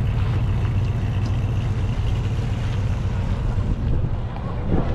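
Car engine running, a low steady rumble.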